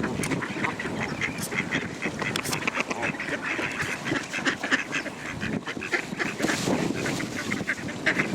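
A flock of ducks quacking, with geese among them: many short calls overlapping without a break.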